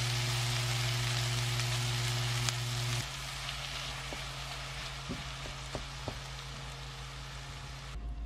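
Mushrooms and vegetables sizzling in a frying pan as they are stir-fried with a silicone spatula, over a steady low hum. About three seconds in the hum stops and the sizzle quietens, with a few light knocks of the spatula against the pan.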